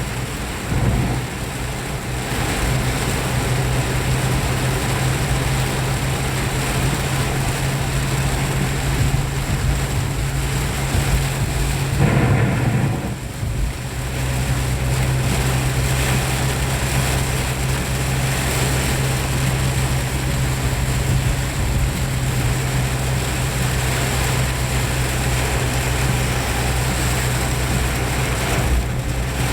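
Heavy rain falling steadily, a tropical downpour, over a steady low hum; the hum wavers briefly about twelve seconds in.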